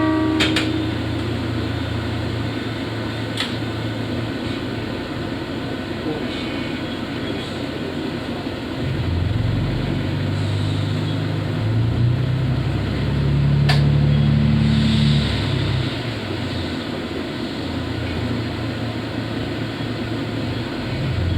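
Diesel engine of a KiHa 54 railcar running under the cab, building up in pitch and loudness about nine seconds in and easing back around sixteen seconds as the train pulls away. The last of the train horn dies away at the very start.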